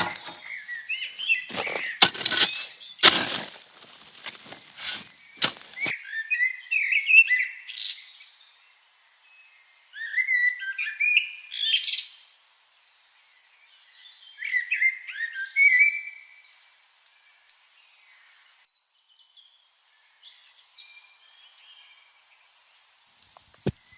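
Birds chirping and singing in short repeated phrases, coming in bursts, fainter in the last few seconds. Several sharp knocks sound in the first six seconds.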